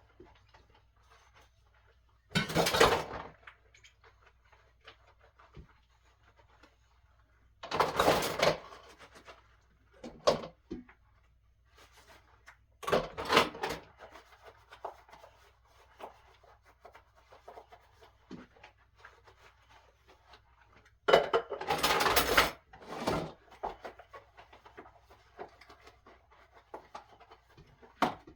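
Washing dishes by hand at a kitchen sink: several short, loud, noisy bursts a few seconds apart, with faint scattered clinks and rubbing between them.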